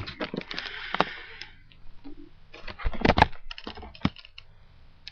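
Small hard plastic Lego pieces clicking and rattling as they are handled: a rustling run of clicks in the first second, then a louder cluster of clicks and knocks from about two and a half to four seconds in.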